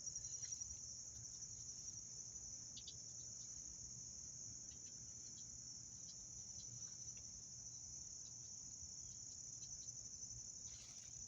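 Steady, high-pitched insect chorus, a continuous shrill trill that does not change, with a few faint ticks scattered through it.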